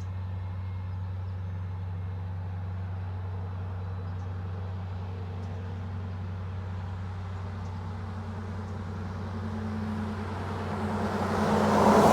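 Steady low diesel drone of locomotives running at low power while they creep the train forward. Near the end a road vehicle passes close by, its sound swelling to a peak and starting to fade.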